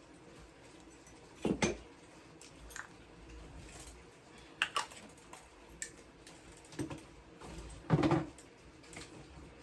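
Four short handling knocks and clicks, the loudest near the end, over a low steady room noise.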